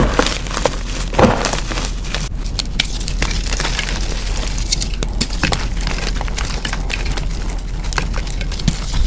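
Reformed gym chalk being crushed, with dense crunching and crackling and a sharper crack about a second in.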